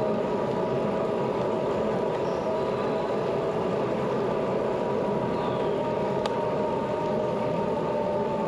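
Steady rush of wind and tyre noise from a moving bicycle, with a faint steady hum and a single light click about six seconds in.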